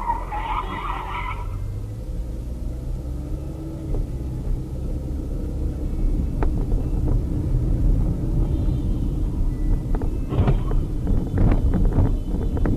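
A car driving, with a steady low road and engine rumble. A brief higher-pitched burst comes right at the start, and a run of sharp knocks and clatters comes in the last few seconds.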